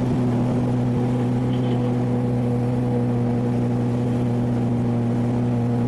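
900 cc motorcycle engine with an aftermarket sport exhaust running steadily at constant revs, its pitch holding level.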